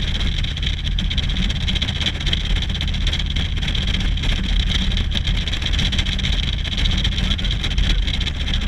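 Motorcycle riding at a steady pace: constant low engine rumble under a steady rush of wind and road noise.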